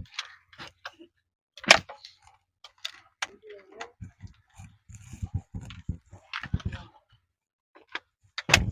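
Scattered clicks and knocks of hard parts being handled, with a sharp knock about two seconds in and another near the end, and a run of dull low thumps in the middle.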